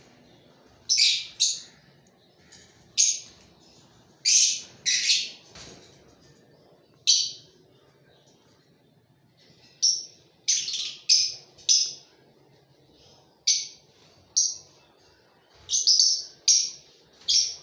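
Lovebirds chirping: short, sharp, high-pitched calls that come in irregular clusters of two or three, with pauses of a second or two between.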